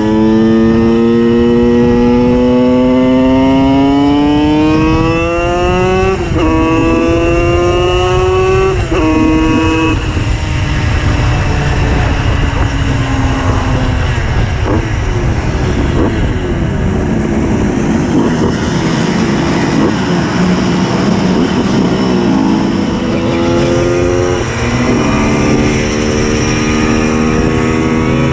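Tuned Simson moped's 90 cc reed-valve two-stroke engine pulling hard under acceleration: its pitch climbs steadily, then drops sharply at two upshifts in the first ten seconds. A rougher stretch follows, and near the end it pulls and shifts up once more.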